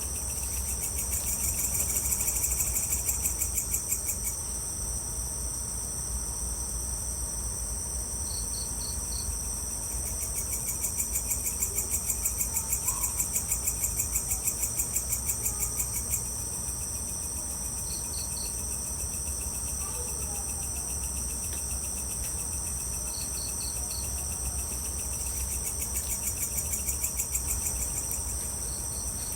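Evening chorus of crickets and other insects trilling steadily at a high pitch. A second, lower pulsing trill comes and goes in spells of several seconds, and a short group of three or four chirps recurs every few seconds. A low steady rumble runs underneath.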